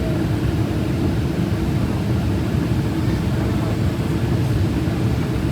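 Steady drone of an airplane: engine and rushing-air noise, deep and even throughout.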